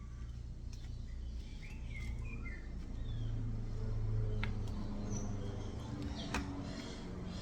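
Parrot chicks giving a few faint, short chirps during hand-feeding, with a couple of sharp clicks and a steady low hum underneath.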